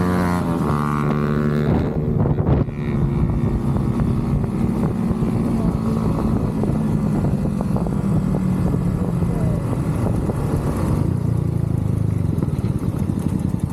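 Motorcycle engine and exhaust running while riding: a steady engine tone for about the first two seconds, then a rougher, rapidly pulsing exhaust note for the rest.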